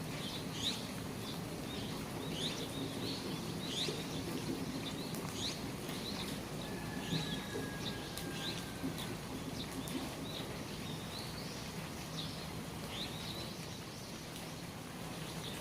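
Steady rain falling from the eaves, with small birds chirping many times in short, quick calls throughout; one longer, slightly falling whistled note about seven seconds in.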